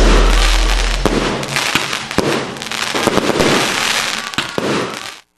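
Fireworks sound effect: dense crackling and popping, with a low rumble under it that fades out in the first second or so. The crackle dies away and cuts off just before the end.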